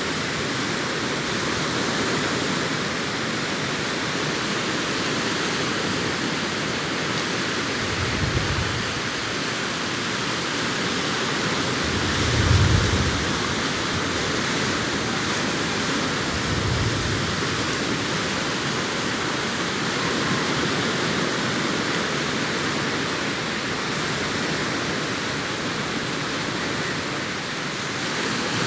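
Sea surf washing onto a beach as a steady, unbroken rush. Three short low thumps come through it about eight, twelve and seventeen seconds in, the middle one the loudest.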